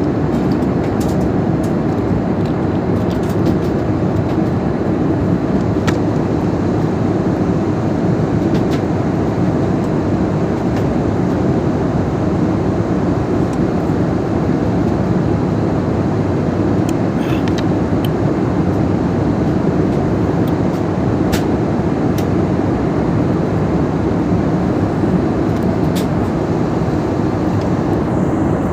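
Steady cabin noise of a jet airliner in cruise flight, the engine and airflow noise heaviest in the low range, with a few faint clicks.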